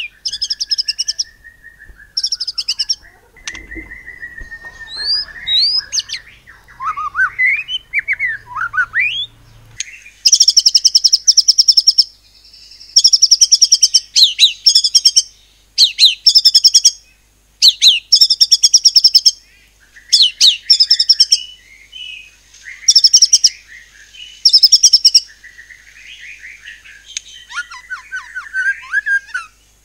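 White-rumped shama (murai batu) singing: varied whistled phrases and sliding notes at first, then from about ten seconds in, loud bursts of rapid-fire high notes repeated every second or two, the 'nembak' style of delivery.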